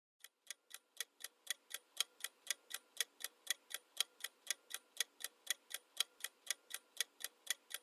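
Clock-style ticking of a countdown timer sound effect, steady at about four sharp ticks a second, fainter at first and reaching full level after a second or two.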